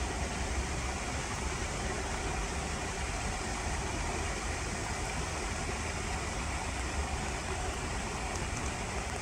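Steady outdoor background noise: an even hiss with an uneven low rumble underneath and no distinct events.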